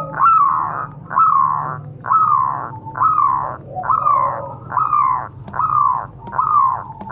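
Zebra dove (perkutut) cooing: a steady series of about eight short coos, roughly one a second, each dipping slightly in pitch.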